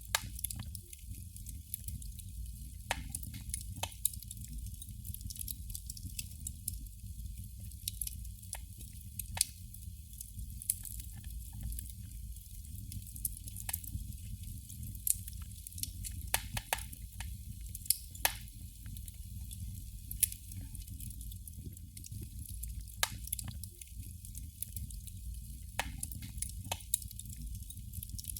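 Candle flame crackling: irregular sharp pops and ticks, a few every several seconds, over a low steady rumble.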